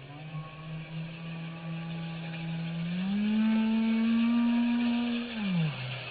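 Dirt bike's motor running steadily, then revving up about three seconds in, holding the higher pitch, and dropping back down near the end.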